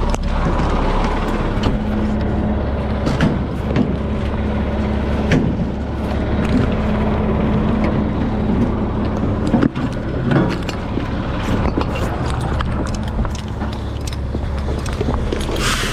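Fire engine running on the road, heard inside the cab: a steady engine drone and road noise with frequent rattles and knocks. A short hiss comes near the end.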